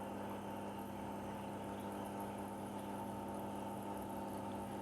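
IFB front-load washing machine running with a steady hum, now working normally without the E9 voltage error since it is fed through a voltage stabilizer.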